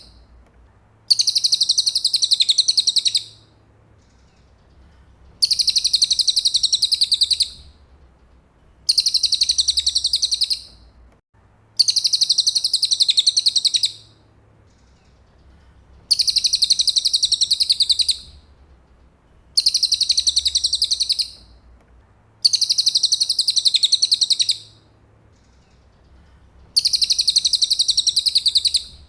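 Cililin bird singing a tutor song, eight high-pitched bursts of about two seconds each, each a fast trill of rapidly repeated notes, coming every three seconds or so.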